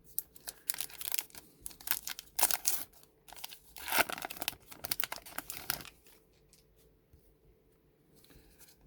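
A baseball card pack wrapper being torn open and crinkled, a quick run of crackling rips that dies down to faint rustles after about six seconds.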